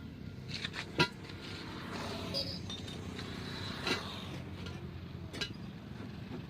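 A few sharp metallic clinks, the loudest about a second in, over a steady low hum of vehicle engines.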